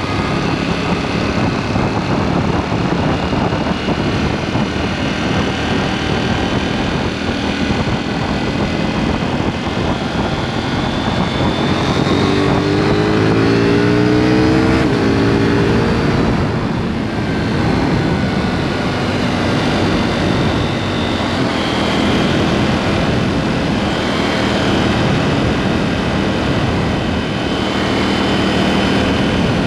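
KTM 790 Duke's parallel-twin engine running on the road through a SpeedPro Cobra SPX aftermarket exhaust, with wind and road noise. About twelve seconds in it accelerates, the pitch rising for a few seconds at its loudest before it eases off.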